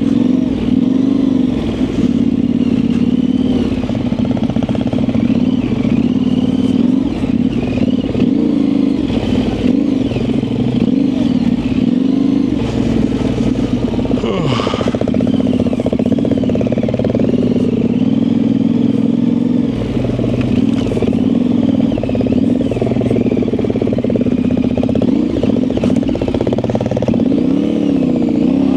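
Yamaha Tenere 700's 689 cc parallel-twin engine, fitted with an aftermarket high-mount exhaust, pulling the bike along a dirt trail. The revs keep rising and falling with the throttle. About halfway through there is a brief rush of noise.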